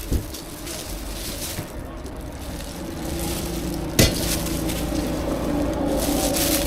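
Food sizzling as it cooks, with a sharp click near the start and a louder knock about four seconds in.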